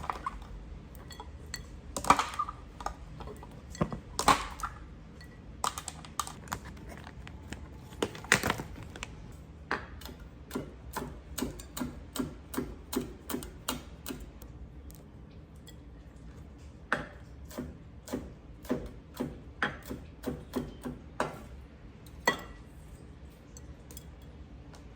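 Food containers and lids being handled and set down: irregular clicks, taps and knocks, with runs of quick light taps in the middle and again near the end.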